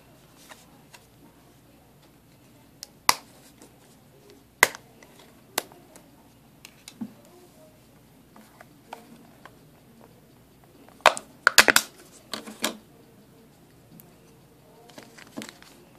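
Scattered sharp plastic clicks and taps as a smartphone is handled and a SIM card is fitted into it, with a quick cluster of clicks about eleven seconds in.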